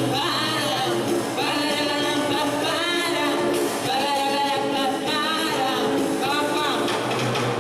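Singing over an instrumental backing track: sung phrases with held, wavering notes over a steady low accompaniment.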